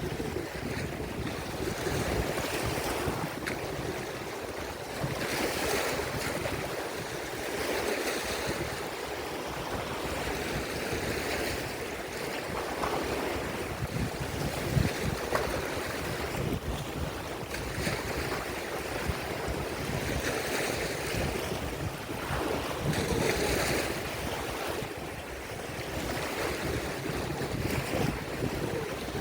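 Lake Erie waves breaking and washing onto the shore, a steady wash that swells every few seconds as each wave comes in. Wind rumbles on the microphone underneath.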